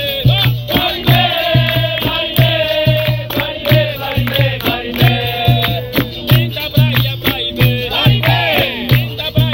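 Capoeira roda music: singing over a steady, repeating hand-drum beat, with the twanging notes of berimbaus and rattling percussion.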